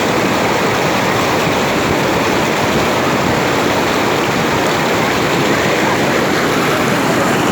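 Waterfall on a river, water pouring and splashing in a loud, steady rush.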